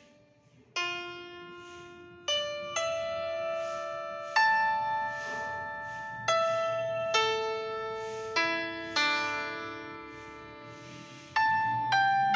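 Slow solo piano music: single sustained notes struck one at a time, each fading slowly before the next.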